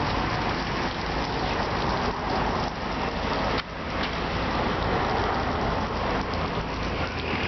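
Water from a 1998 Ceccato car wash machine spraying steadily onto a car, a dense rain-like hiss with a brief dip about three and a half seconds in.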